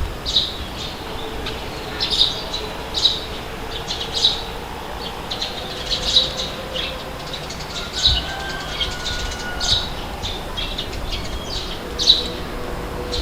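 Birds chirping: many short, high calls in quick, irregular succession over a low steady rumble of wind.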